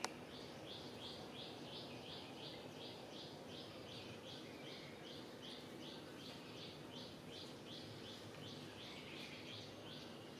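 A bird calling a steady series of short, high chirps, about three a second, over faint outdoor background noise. A sharp click right at the start.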